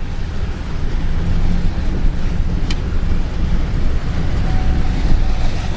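A vehicle driving over rough, wet ground: a steady low engine and road rumble with wind buffeting the microphone, and one sharp click about two and a half seconds in.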